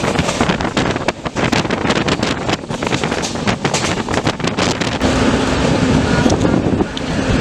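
Express train running, heard from on board, with heavy wind buffeting the microphone and many sharp crackles; a steady low hum joins about five seconds in.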